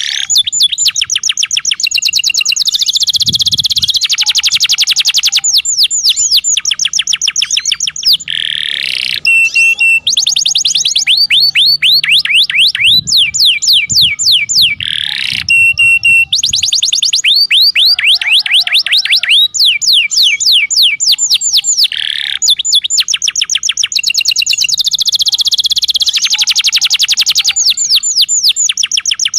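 Domestic canary singing: long rolling trills of fast repeated sweeping notes whose speed changes from phrase to phrase, with short breaks about eight and sixteen seconds in.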